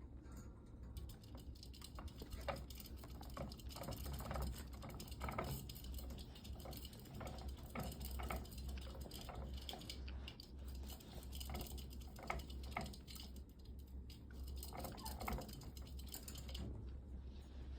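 Irregular scratching and rustling, with small clicks, of sugar gliders clambering about in a fabric pouch, over a steady low hum.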